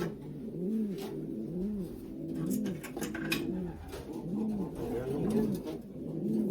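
Racing pigeons cooing in a loft: repeated low rising-and-falling coos, overlapping from several birds, with a few faint clicks.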